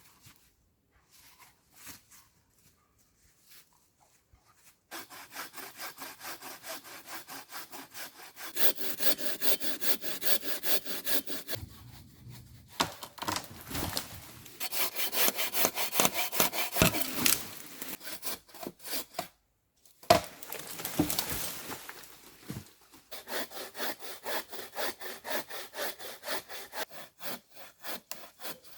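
A hand saw cutting wood with rapid back-and-forth strokes. It starts about five seconds in and goes in several bouts, with short pauses between them.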